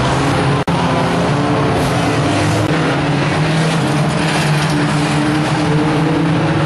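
Several 1600cc banger race cars' engines running hard together, their pitches drifting up and down as they rev. The sound drops out for an instant well under a second in.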